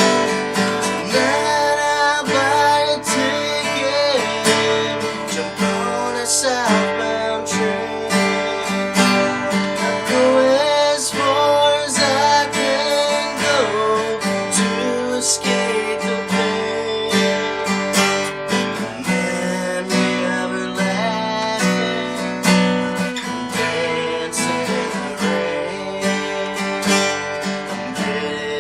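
Acoustic guitar playing a country tune with strummed chords and a melody line whose notes bend and slide in pitch.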